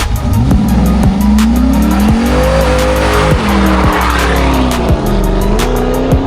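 A car engine revving, its pitch climbing, holding, dropping and climbing again, with a hiss of tire noise swelling in the middle. Background music with a steady beat plays throughout.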